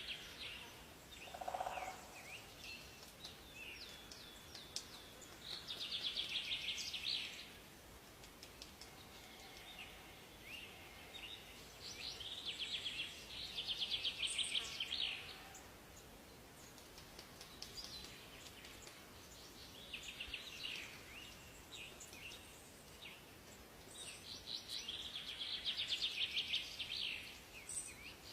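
Forest birdsong: a bird repeats a fast, high trilled song lasting one to three seconds, about every six or seven seconds, with scattered short chirps between over a faint steady hiss.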